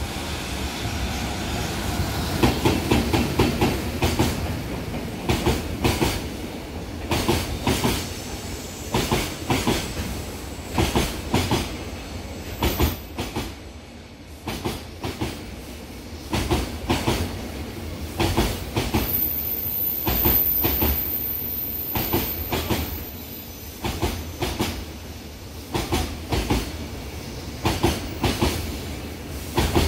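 EF210 electric locomotive and its train of Koki container wagons passing at speed: loudest as the locomotive goes by in the first few seconds, then the wheels clicking over rail joints in clusters about once a second as wagon after wagon rolls past. A thin high whine comes in for a few seconds about twenty seconds in.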